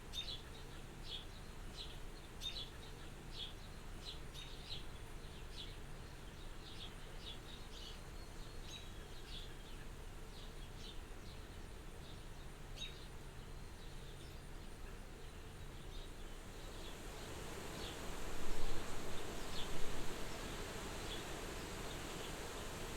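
Soft wind blowing at a farmhouse window, a steady hiss that swells into a stronger gust about three-quarters of the way in. Over it come short, high chirps repeating every half-second or so, fading as the gust rises.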